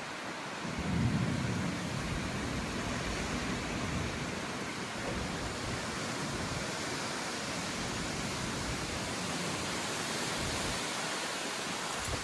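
Windstorm wind blowing steadily, with a louder low gust about a second in.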